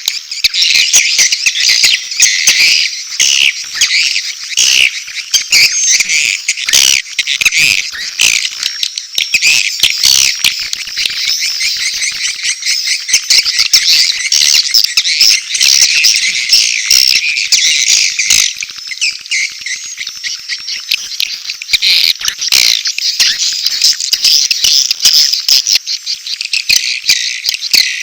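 Swiftlet lure recording: a dense colony of swiftlets twittering with rapid overlapping chirps and clicks, mixing adult mating calls with chick calls, the sound played at swiftlet nesting houses to draw the birds in to roost.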